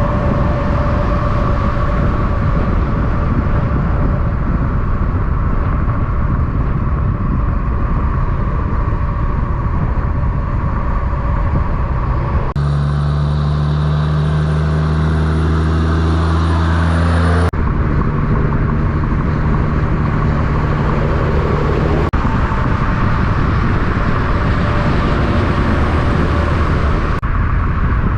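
Diesel semi-trucks passing on a highway: a constant rush of tyres and engines. About halfway through, a loud, steady, low diesel engine drone stands out for about five seconds, starting and stopping abruptly.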